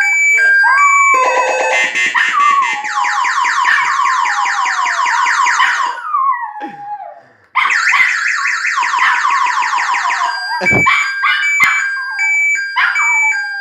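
Motorcycle anti-theft alarm sounding, switching between steady two-tone beeps and rapid warbling siren runs, with a short break about halfway through. A dog howls along in long falling notes, and there is one sharp thump late on.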